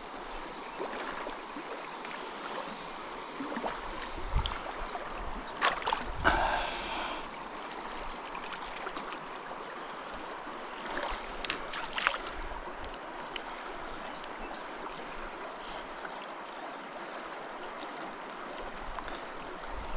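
Small mountain stream running over a riffle: a steady rush of water, with a few soft knocks and clicks about four to six seconds in and again about eleven to twelve seconds in.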